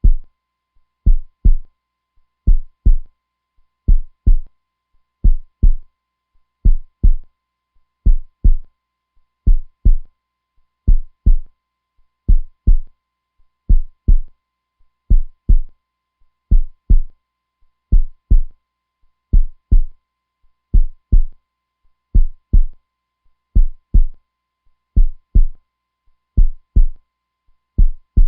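A strong, steady heartbeat: paired lub-dub thumps repeating slowly and evenly, a bit under one beat a second, deep and low-pitched. A faint steady tone sits underneath.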